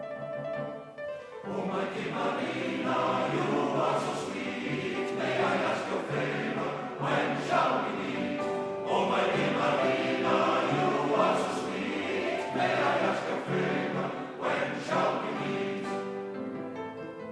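Recorded music: a choir singing with instrumental accompaniment, the voices coming in fully about a second in after a thinner instrumental passage.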